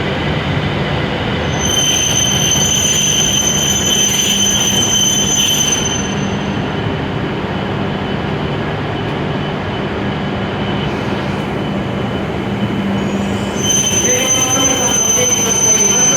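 E7/W7-series Hokuriku Shinkansen train running steadily, with a thin, high-pitched whine that comes in for a few seconds near the start and again near the end.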